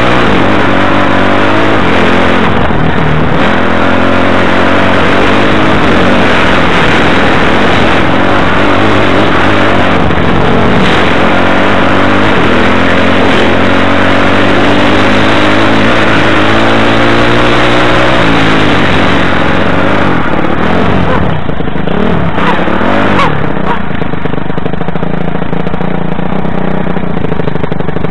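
Enduro dirt bike engine running and revving, its pitch rising and falling. Near the end it drops to a lower, steadier note.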